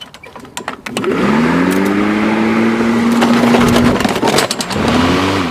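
Lawnmower engine running loud, speeding up about a second in, sagging briefly near the four-second mark and picking up again, with sharp clattering knocks of toys being struck under the deck.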